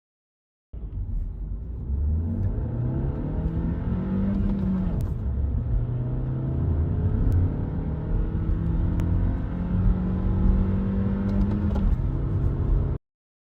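Skoda Octavia Mk3 engine under full-throttle acceleration, its pitch climbing, dropping at an upshift about four and a half seconds in, then climbing steadily again through the next gear.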